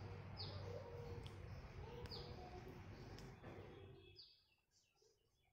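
A small bird chirping faintly and repeatedly, a short falling note about once a second, over low room hum that drops out about four seconds in.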